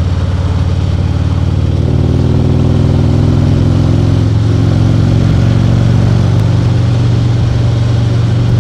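Harley-Davidson Ultra Limited's V-twin engine running under way, a steady engine note that gets a little louder about two seconds in.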